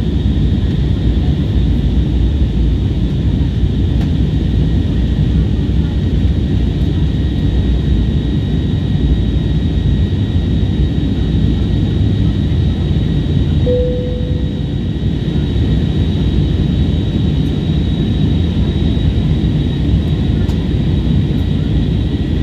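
Airliner jet engines and airflow making a steady, dense low rumble, heard from inside the cabin during the climb after take-off. A thin, steady high whine sits over it throughout.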